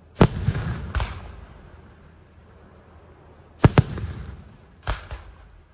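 Aerial firework shells bursting overhead: sharp bangs in quick groups, two in the first second, a close pair past three and a half seconds, and another near the end, each followed by a rolling echo.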